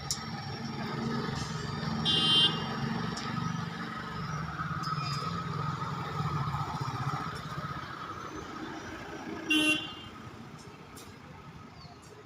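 Two short, high-pitched vehicle horn honks, one about two seconds in and one near the end, over a steady low rumble of traffic that fades away toward the end.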